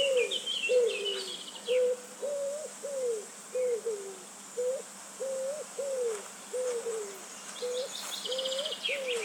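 A bird's low hooting, cooing notes, short and repeated about twice a second, some sliding up and some sliding down. A small bird's quick high chirps come at the start and again near the end.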